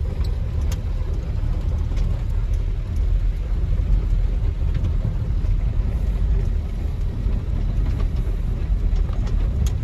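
1949 Dodge truck's flathead six-cylinder engine pulling steadily in second gear at low speed, a steady low rumble with faint ticks and rattles over it.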